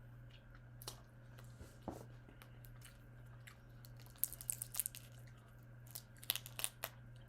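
A person eating prawns: chewing and crackly mouth and shell sounds in two short flurries, one about four seconds in and another near the end, over a low steady hum.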